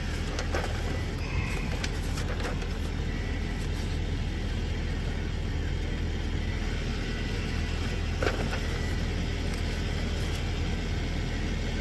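Ford F550's 6.7 Power Stroke V8 turbo-diesel idling steadily, with a few faint clicks over it.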